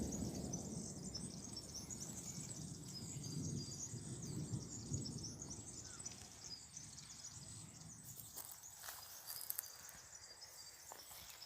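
Many small birds chirping and twittering at once, a dense high chatter that thins out after about eight seconds, with a low rumble dying away over the first few seconds and a few sharp clicks near the end.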